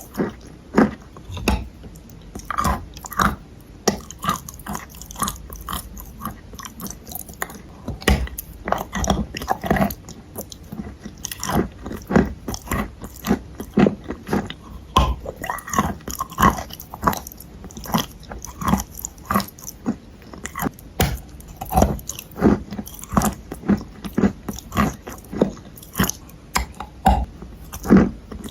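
A person biting and chewing pieces of clay up close to the microphone. The crunches come a few a second, one after another without a break.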